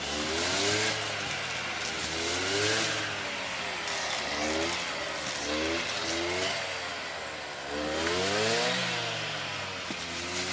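An engine revved up and down over and over, its pitch rising and falling every second or two.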